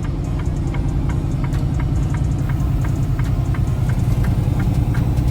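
Semi-truck engine running steadily, heard from inside the cab, with a regular light ticking about two or three times a second.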